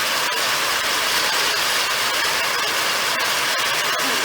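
Fireworks crackling continuously: a dense hiss of many small pops, steady throughout.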